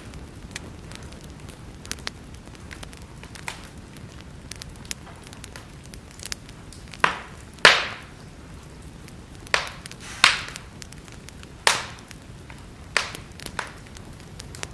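Wood fire crackling: a steady low rustle of burning with scattered sharp pops and snaps, the loudest a little past the middle and several more in quick succession toward the end.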